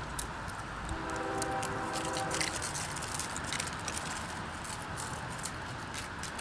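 CSX freight train on the rails: a steady rumble with many irregular sharp clicks, and a faint steady multi-note tone for about a second and a half starting about a second in.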